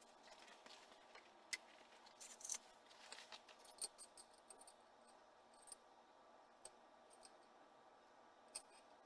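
Faint, scattered sharp clicks and brief light scrapes over a quiet background. They come in a cluster between about two and four seconds in, with a few single clicks later and one near the end.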